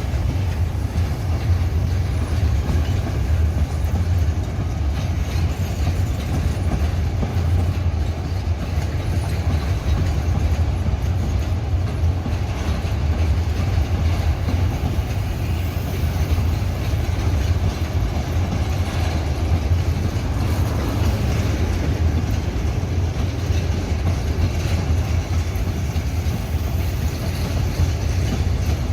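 Freight train rolling past with a steady low rumble and continuous wheel-on-rail noise.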